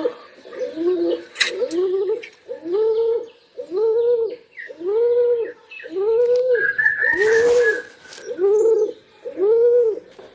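Pigeon cooing over and over, a quick run of short rising-and-falling coos at roughly one every 0.7 seconds.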